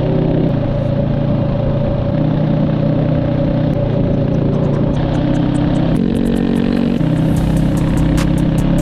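Sport motorcycle engine running under way, its note shifting in steps every second or so. A fast, regular ticking comes in over the last few seconds.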